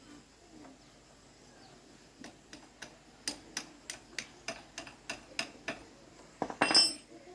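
Metal hand tool working on motorbike parts: a regular run of light metallic clicks, about three a second, then a louder brief metal clatter with a ringing tone near the end.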